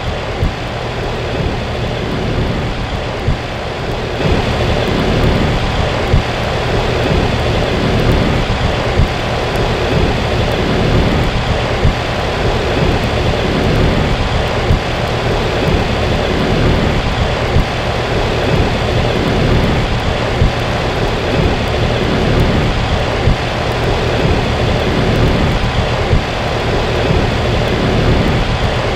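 2011 Payne PH13 13 SEER heat pump outdoor unit running in its defrost cycle: a steady low compressor hum under a loud, even rushing hiss, with a few brief knocks.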